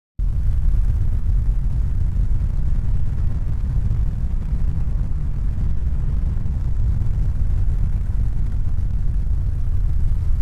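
A steady low rumble with no distinct tones that starts abruptly just after the beginning and fades out near the end.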